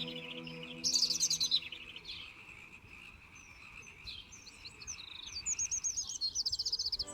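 A small songbird singing: quick high chirps, a rapid burst of notes about a second in, and a fast repeated trill near the end, over soft ambient music that fades out early.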